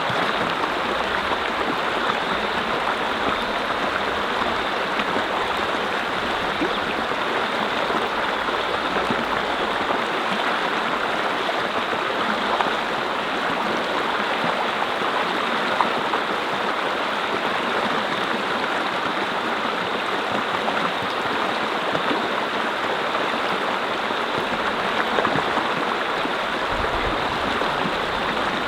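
Mountain brook running steadily over stones, a continuous splashing and gurgling rush of water.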